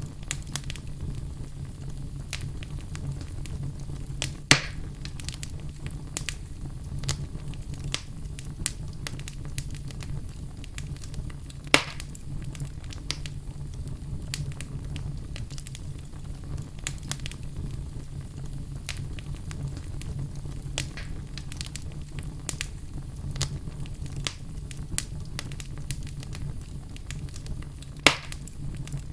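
Wood fire burning in a fireplace, crackling continuously over a steady low rumble. Three sharper, louder pops stand out: about four seconds in, about twelve seconds in, and near the end.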